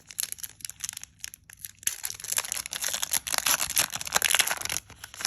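Foil Pokémon booster pack wrapper being torn open and crinkled: scattered crackles at first, then about three seconds of dense crinkling that stops just before the end.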